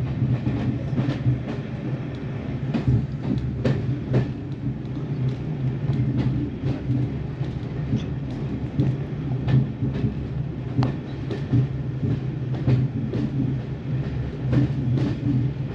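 Heritage passenger train running along the line: a steady low drone with frequent irregular clicks of the wheels over the rail joints.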